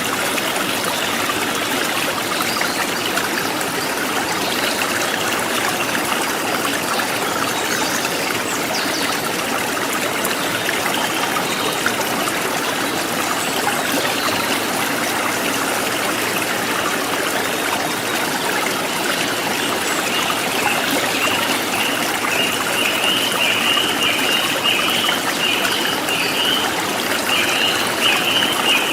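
River water flowing and trickling steadily over stones. About two-thirds of the way in, a rapid string of short, high chirps from a small animal joins it.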